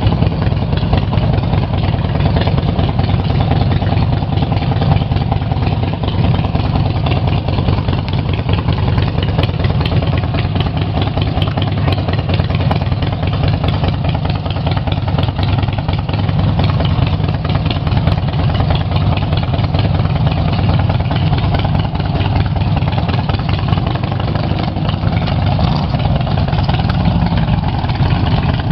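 Harley-Davidson motorcycle's V-twin engine running steadily at an even speed, with no revving.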